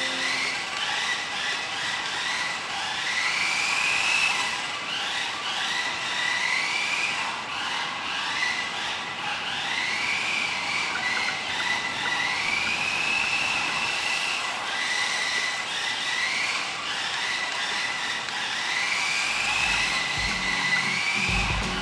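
Xmod micro RC car's small electric motor whining, its pitch rising and levelling off again and again as the car accelerates in short runs, over a steady high hiss of gears and tyres.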